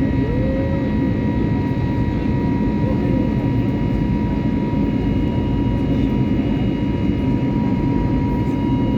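Steady cabin noise of an Airbus A320neo in flight: the rush of air and the running CFM LEAP-1A engines, a deep even rumble with a steady whining tone over it.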